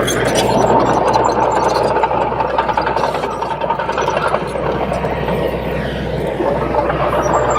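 Crawler bulldozer's diesel engine running steadily.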